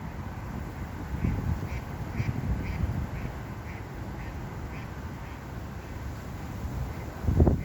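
A bird calling in a steady series, about two short calls a second, over wind rumbling on the microphone, with a loud low thump near the end.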